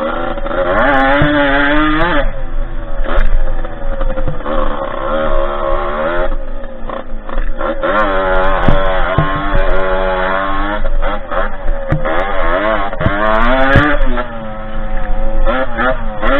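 Derbi 50cc two-stroke engine of a dirt bike under riding, revving up and dropping back several times as the rider works the throttle and gears.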